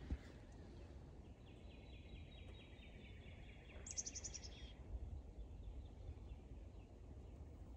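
A small songbird singing faintly: a steady trill of about seven quick repeated notes a second for some two seconds, followed by a brief higher-pitched burst of notes, over a low outdoor rumble.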